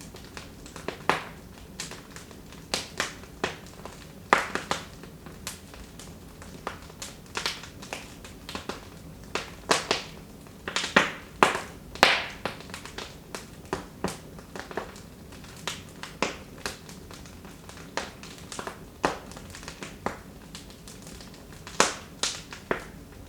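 Wood fire burning in a fireplace, crackling with irregular sharp pops and snaps, the loudest bunched around the middle and one near the end, over a faint steady low hiss.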